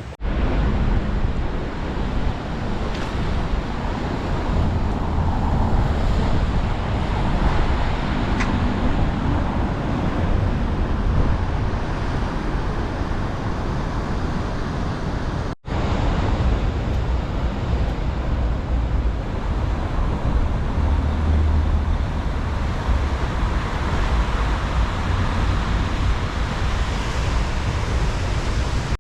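Strong wind buffeting the microphone over the noise of rough ocean surf: a steady, loud rush with heavy low rumble. It cuts out for an instant about halfway through.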